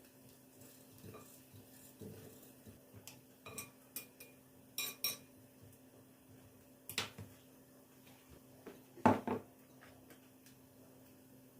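Dishes and cutlery clinking as they are handled in a kitchen: a scattered series of sharp clinks, with the loudest, duller knock about nine seconds in. A faint steady hum runs underneath.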